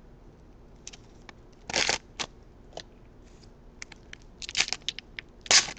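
Crinkling and rustling of a trading-card pack wrapper and cards being handled, in short scattered bursts, with a cluster of crackles about four and a half seconds in.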